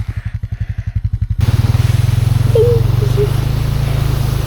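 Four-wheeler engine running with an even, low putter. About a second and a half in it gives way suddenly to a louder, steadier drone with a rushing hiss over it.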